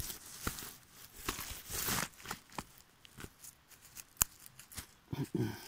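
Handling noise from the recording phone being moved and set down: scattered clicks and knocks with brief rustling, one sharp click a little past four seconds in. No chainsaw engine is running.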